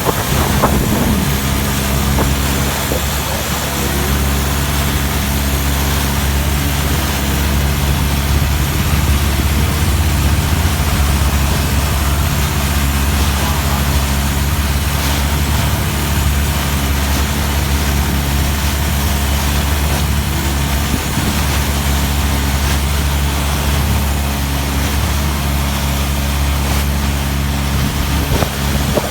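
Longtail boat engine running loud and steady at a constant speed, with an even wash of noise over it.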